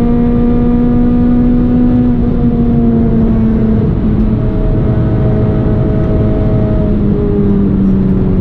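Renault Clio 197's 2.0-litre four-cylinder engine running with a steady note that dips slightly about four seconds in and then sinks slowly, over a constant rush of road and wind noise.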